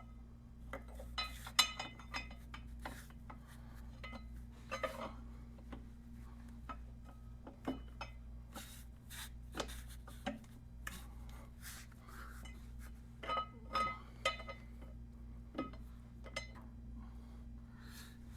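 Light metallic clicks, clinks and scrapes of brake pads and the pad pin being handled and fitted into a motorcycle's rear brake caliper, in clusters with quieter gaps between, over a steady low hum.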